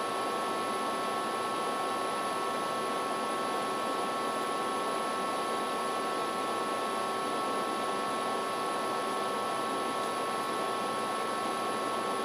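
Steady background hiss with a few faint steady tones in it, unchanging throughout.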